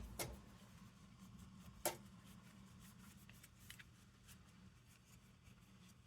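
Near silence: room tone with a steady low hum and a few faint clicks, the clearest about two seconds in.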